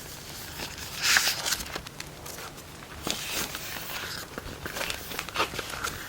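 Firewood burning, crackling with irregular sharp pops and snaps, a louder flare of crackle about a second in.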